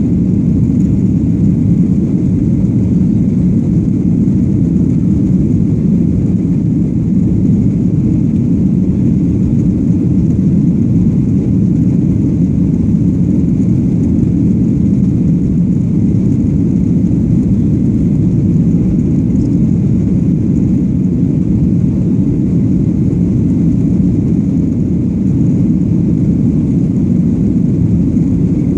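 Airplane noise: a steady, loud low rumble that holds the same pitch and level throughout.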